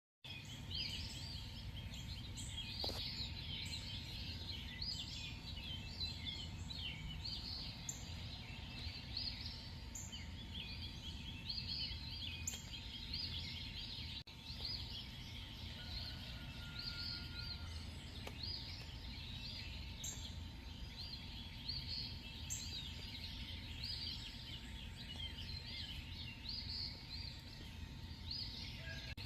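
A night-time chorus of many small animals, giving short, high chirping calls that overlap without pause, over a steady low rumble.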